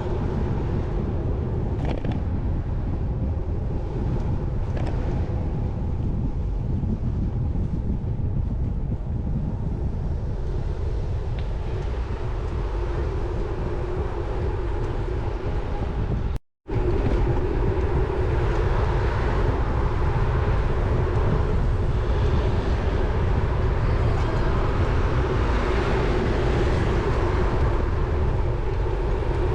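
Wind rumbling on the microphone of a camera riding along on a road bike, with road noise and a steady hum. The sound cuts out for a moment about sixteen seconds in, then carries on a little louder.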